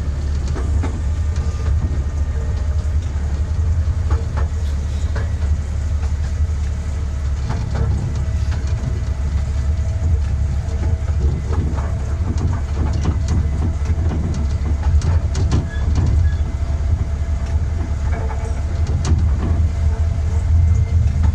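12-inch-gauge miniature railway train running along the track: a steady low rumble with the wheels clicking over the rail joints.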